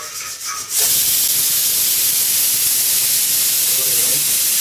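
Water running steadily from a tap, switching on suddenly about a second in.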